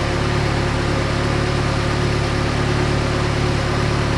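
Saab 90's four-cylinder engine on a single Stromberg carburettor idling steadily at an even pitch, while its mixture is being tuned for emissions.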